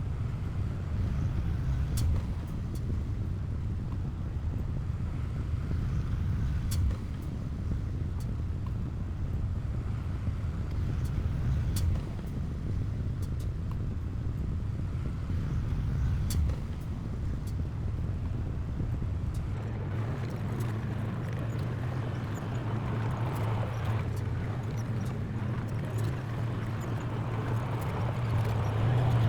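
Heavy diesel construction machinery running steadily with a low engine drone and scattered sharp clicks. About two-thirds of the way through, the sound changes to a steadier hum with more hiss above it.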